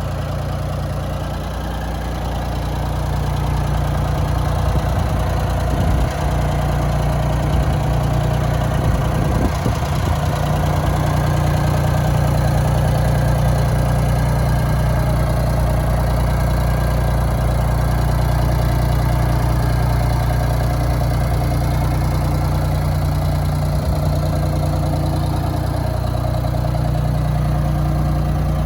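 Ford 3000 tractor's three-cylinder gasoline engine running steadily at idle, its level rising slightly a few seconds in and then holding.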